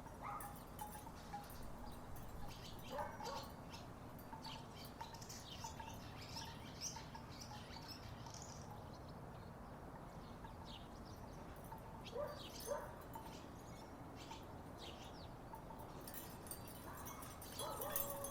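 Wooden tiki wind chimes knocking together in the breeze in scattered clusters of hollow clacks and short notes, with a few bird chirps in the background.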